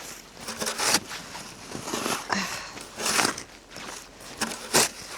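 Slow footsteps trudging through deep snow, a louder crunch about every second or so, over a steady rushing noise.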